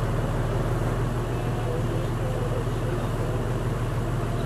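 A vehicle engine idling steadily, with faint voices in the background.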